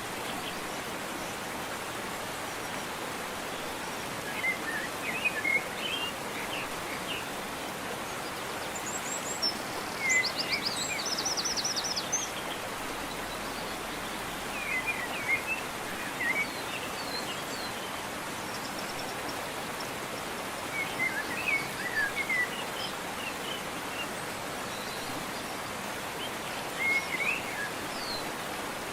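Waterfall rushing steadily, with wild birds chirping in short phrases every few seconds over it and a rapid high trill about ten seconds in.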